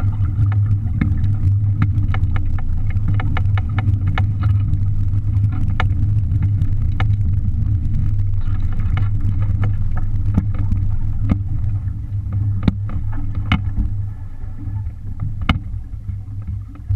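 Strong wind rumbling steadily on the microphone aboard a small sailboat under sail, with many scattered sharp clicks and knocks from the boat and water.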